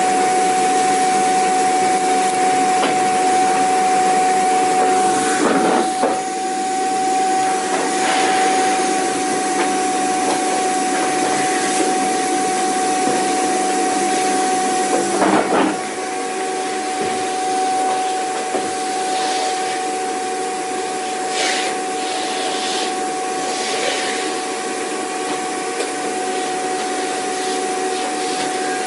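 Vacuum cleaner running steadily: a high motor whine over a rushing hiss. The sound shifts briefly twice, about six and sixteen seconds in, and runs a little quieter afterwards.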